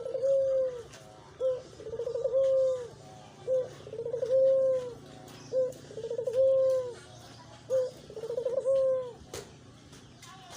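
Ringneck dove (puter) cooing over and over in its song-practice call. Each phrase is a short note, a quick rolling stutter, then a long held coo, and the phrases come about every two seconds.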